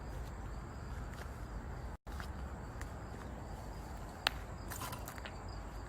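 Footsteps over a faint steady chirping of crickets, with a sharp click about four seconds in.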